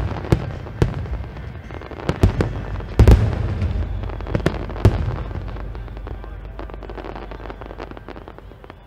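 Aerial fireworks shells bursting in quick succession, the biggest booms about three seconds in, then a dense crackle of many small pops that fades away as the display dies down.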